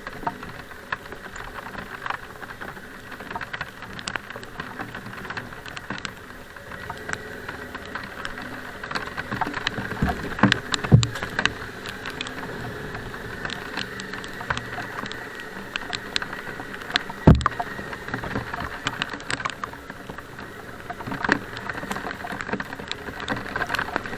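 Rain pattering steadily, with many scattered sharp ticks. Two loud knocks come about ten seconds in and again about seventeen seconds in.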